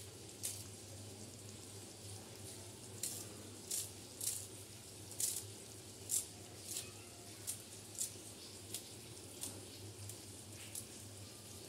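Okra, tomato and onion curry frying in an iron kadai: a faint steady sizzle dotted with irregular sharp pops and crackles, over a low steady hum.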